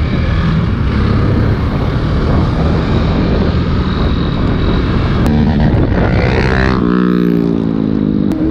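Motorcycle riding off: the engine runs under heavy rushing wind noise, and a steadier pitched engine note comes through near the end.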